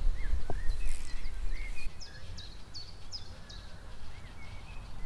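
Wild birds calling: scattered short chirps, and from about two seconds in a quick run of about five high, sharp, falling notes. Wind rumbles on the microphone for the first two seconds, then stops abruptly.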